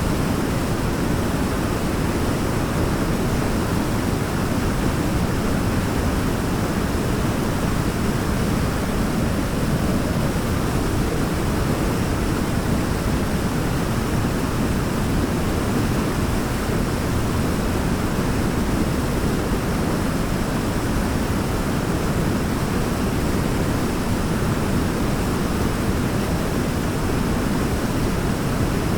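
Waterfall: steady rushing water, deep and unchanging, with no individual splashes standing out.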